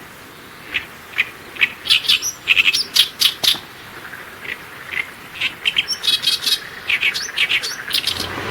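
Small birds calling: a run of short, sharp chirps and squeaky notes, thickest about two to three seconds in and again near the end.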